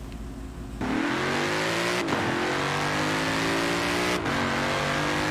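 A car engine accelerating hard through the gears, starting about a second in. Its pitch climbs, drops at two gear changes about two seconds apart, and climbs again each time, over a steady rushing hiss.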